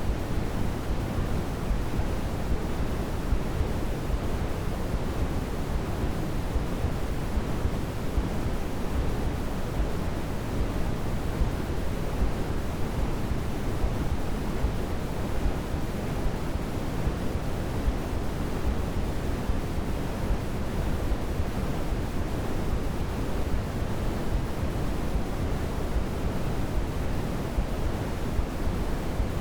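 Continuous white noise played as a baby sleep aid: an even, unchanging hiss that is heaviest in the low end, giving a soft, deep rushing sound.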